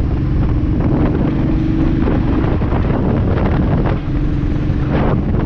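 Heavy wind buffeting on the camera microphone of a moving motorcycle, with the Royal Enfield Bullet 350's engine running steadily underneath.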